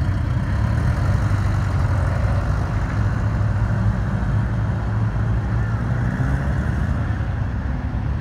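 Classic cars' engines running as the cars roll slowly past, a steady low engine note throughout.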